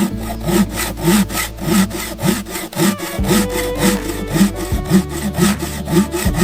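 Fast, even rasping strokes, about four to five a second, that start abruptly, with steady background music underneath.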